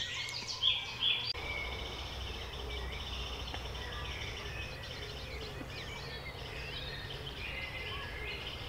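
Several songbirds singing and chirping at once, many short overlapping calls and trills, over a steady low background rumble.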